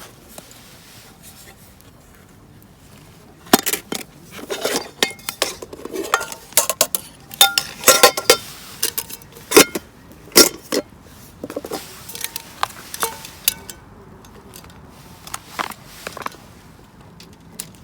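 Metal cookware and utensils clinking and clattering in a quick, irregular run of knocks, some with a short metallic ring. It starts a few seconds in, stops briefly, then gives a few more knocks near the end.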